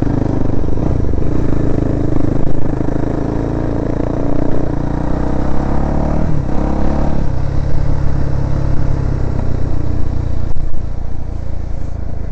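Yamaha YZ400F four-stroke single-cylinder dirt bike engine running under way. The engine note shifts in pitch a little past halfway, as the revs change.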